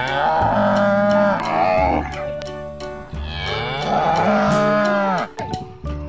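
Zebu cattle mooing: two long moos of about two seconds each, the pitch falling as each one ends.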